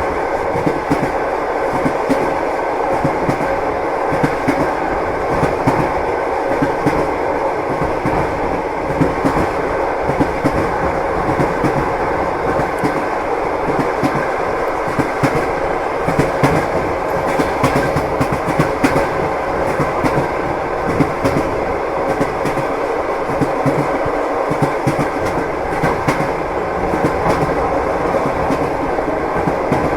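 Train wheels clattering over the rail joints with a continuous rumble, heard from inside a moving railway carriage, with a faint steady hum underneath.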